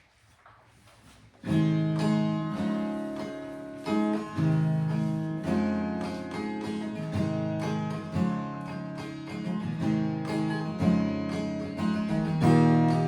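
Acoustic guitar playing a strummed chord introduction, starting about a second and a half in after a short near-silent lead-in.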